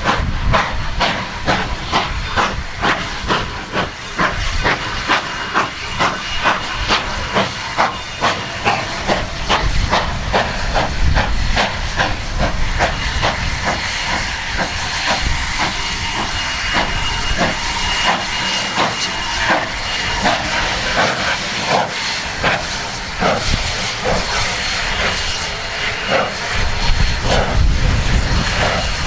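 Narrow-gauge steam locomotive working under steam, with sharp exhaust chuffs over a steady steam hiss. The beats come about twice a second at first and spread out to about one a second in the second half.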